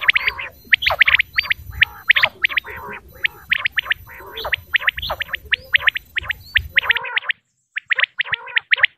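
Female common quail calling: rapid runs of short, sharp chirps, several a second, overlapping at times. About seven seconds in the background hiss drops away abruptly while the calls continue.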